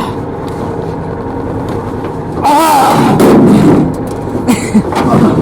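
A man straining with effort, letting out a loud drawn-out groan about halfway through, with brushy rustling and a few short knocks near the end, as he heaves a heavy whitetail buck.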